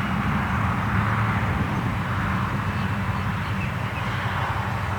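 Large electric RC Waco biplane flying low, its motor and propeller giving a steady hum with no change in pitch.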